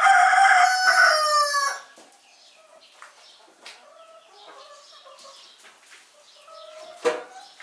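A rooster crowing once, loud, for about two seconds at the start, the call falling in pitch as it ends. Softer clucks and calls from chickens follow, with one short louder call near the end.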